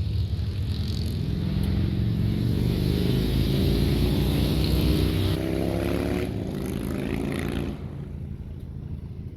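Motor vehicle engine accelerating, its pitch rising steadily for several seconds, then dropping away sharply near the end.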